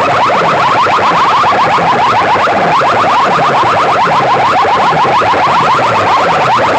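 A DJ sound-box system at a roadshow competition blasting an electronic siren-like effect. It is a fast train of rising chirps, about six a second, over a low falling tone that repeats roughly once a second.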